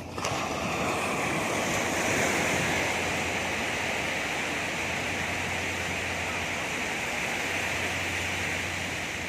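Sea surf: a wave breaks with a sudden rush about a third of a second in, then washes on in a steady hiss that slowly eases off.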